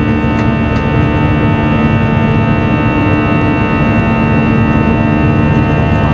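Airbus A320 engine and airflow noise heard inside the cabin, running steadily at high power, with a constant roar and several fixed whining tones above it.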